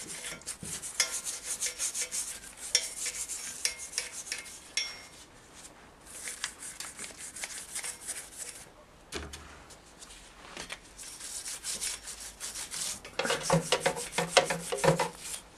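Scrubbing the motorcycle engine's metal casing by hand during degreasing, in runs of quick scratchy rubbing strokes with short pauses.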